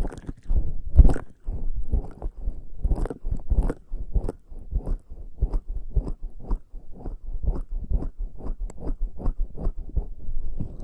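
Bare skin slick with lubricating jelly rubbing and pressing against a binaural microphone, making wet, sticky squelches in quick repeated strokes that settle into an even rhythm of about three a second in the second half.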